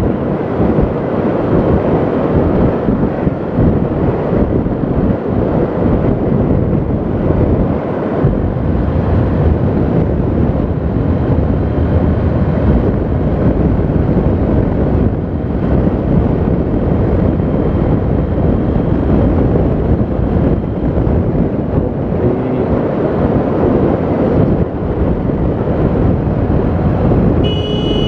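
Wind buffeting the microphone over steady road and vehicle noise while riding along a road. A horn sounds briefly near the end.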